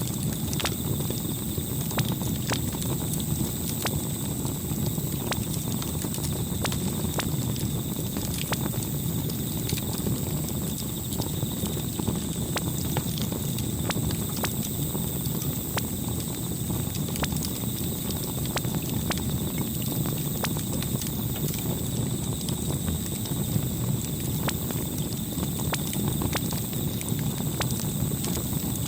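Campfire crackling: irregular sharp pops and snaps over a steady low rush of burning wood.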